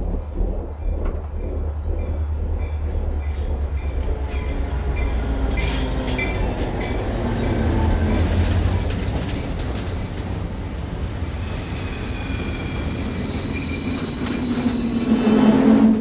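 Train running with a low rumble and a regular clatter of clicks, building to a high, steady metallic wheel squeal that is loudest in the last few seconds and stops abruptly.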